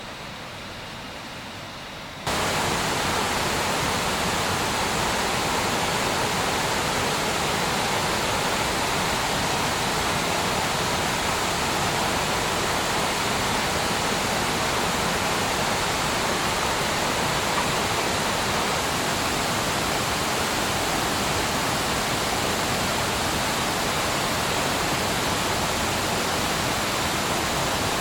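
Steady, even rush of falling water that cuts in abruptly about two seconds in, after a quieter stretch.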